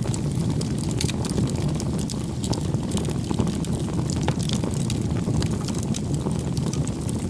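Campfire burning with a steady low rumble and frequent irregular crackles and pops.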